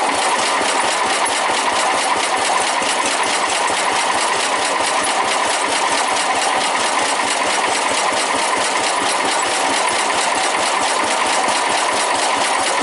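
Suburban 10 garden tractor's engine being cranked by its electric starter, with a steady beat of about five a second and no sign of catching. This is a hard cold start, with the engine flooding and fouling its spark plug.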